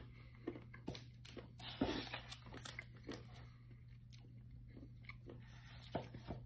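A person chewing a piece of dark chocolate: faint, irregular crunching and clicks, busiest a couple of seconds in.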